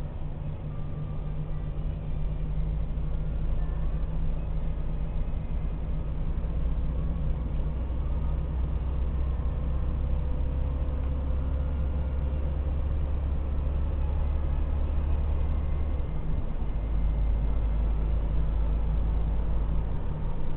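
Electric commuter trains running slowly past on the station tracks: a steady low rumble with faint thin tones above it, shifting slightly near the end.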